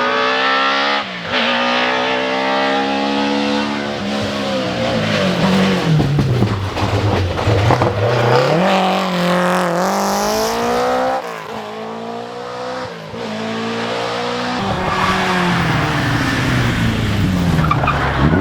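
Rally car engine driven hard: the pitch falls away as the car slows, then climbs again under acceleration, with abrupt drops at gear changes about a second in and twice in the latter half.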